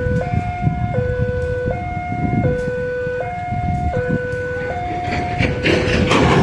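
Railway level-crossing warning alarm sounding its two-tone electronic signal, switching between a lower and a higher tone about every three quarters of a second, over the low rumble of a train. A hissing swell rises briefly near the end.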